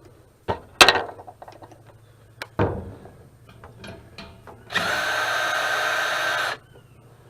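A power drill fitted with a nut socket running for about two seconds, spinning off a nut that holds the motor, after a few metal clanks as the tool and parts are handled.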